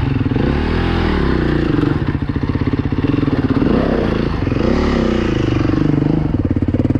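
Dirt bike engine revving in short rises and falls as the throttle is worked, held loud throughout, with no steady idle.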